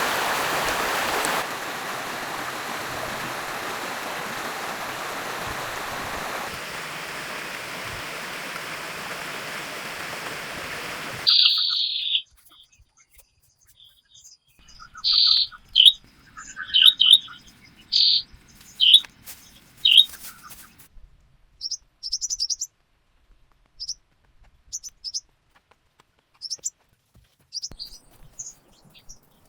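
Steady rushing water for about the first eleven seconds, stepping quieter twice, then cutting off suddenly. After the cut, songbirds chirp in short sharp notes, loudest for a few seconds in the middle, then fainter and higher.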